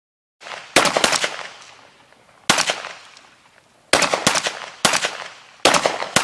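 Gunfire: irregular volleys of sharp shots in small clusters about every second, each with an echoing tail, as in a battle scene.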